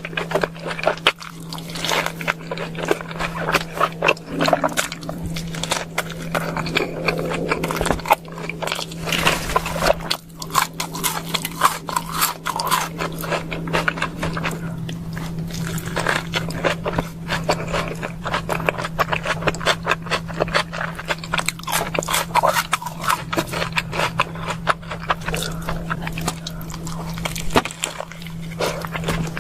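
Close-miked chewing of a burger and fries: dense, irregular crunching and wet mouth clicks, over a steady low hum.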